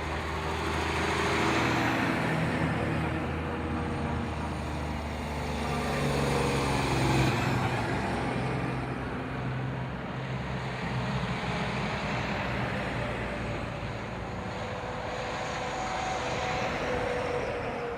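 Tow trucks driving past one after another, their engines swelling and fading as each goes by, with a falling pitch as one passes about seven seconds in.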